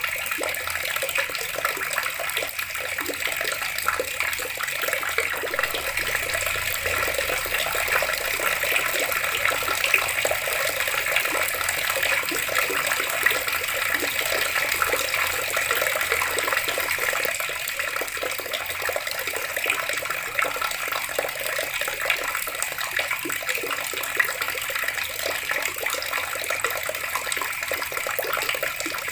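Water tap running steadily, a continuous stream of water splashing.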